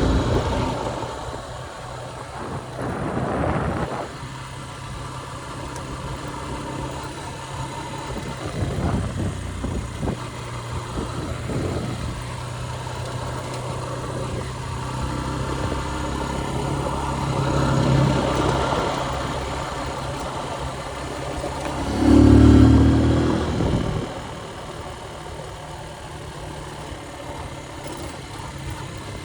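Motorcycle engine running steadily while riding, with a louder low rumble that swells for about two seconds late on.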